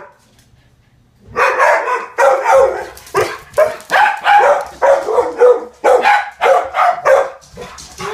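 Dogs barking loudly and repeatedly at a garbage truck, starting about a second in and going on at roughly two barks a second.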